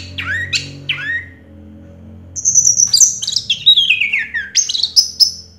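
Orange-headed thrush singing: a few quick downward-swooping whistles, a short pause, then a fast, varied run of high notes with a long falling slide and rising notes near the end.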